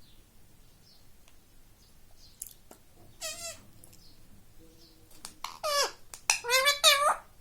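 Indian ringneck parakeet calling: one short, wavering screech a little after three seconds in, then a louder run of several wavering screeches near the end.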